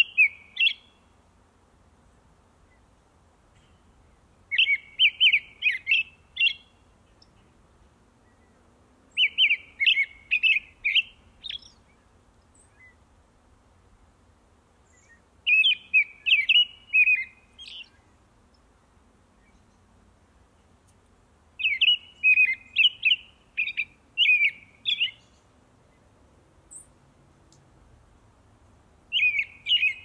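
A songbird singing a short phrase of quick chirping notes, repeated about every six seconds with quiet gaps between.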